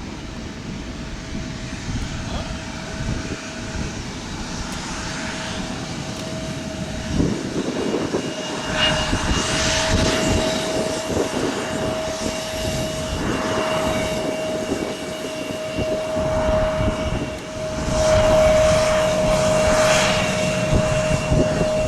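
Jet engines of a departing Boeing 767 heavy: a steady whine over a broad rumble that grows louder, loudest near the end.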